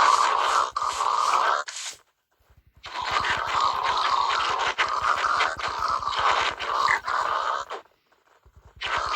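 Harsh scraping noise, likely tool work on material, in two spells: a short one that cuts off about two seconds in, and a longer one starting about three seconds in.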